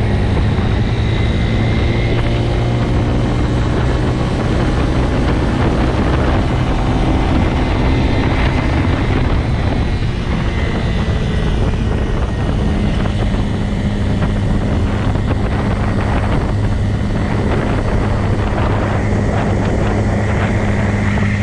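Motorcycle engine running at a steady pitch while riding, with wind and road noise.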